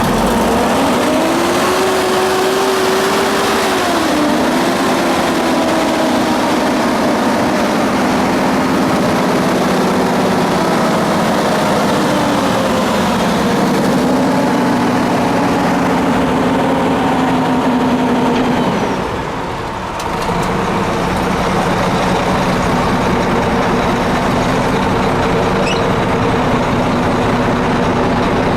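2003 International dump truck's engine running, its pitch rising and falling several times as the engine speed changes, with a brief drop about two-thirds of the way through.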